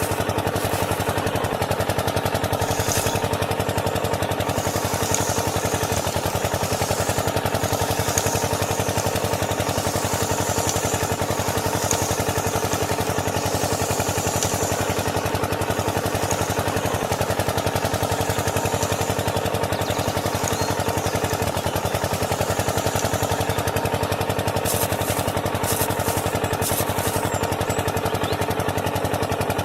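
Small engine running steadily at a constant fast speed, with a few brief clicks near the end.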